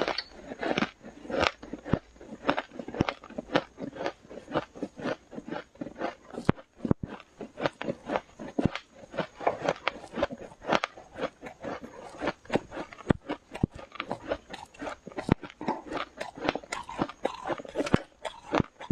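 Close-up biting and chewing of powdery freezer frost: rapid, irregular crunches, several a second, as the ice is crushed between the teeth.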